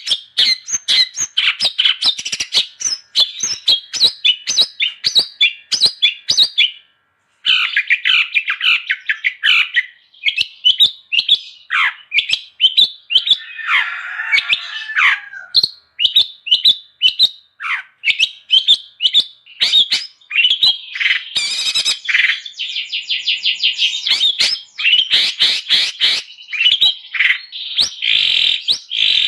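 Long-tailed shrike (cendet) singing a fast, almost unbroken run of sharp chattering and chirping notes. There is a brief pause about seven seconds in and a harsher rasping phrase around the middle.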